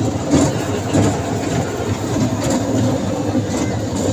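Small park ride train running: a steady engine hum with irregular knocks and rattles from the carriages.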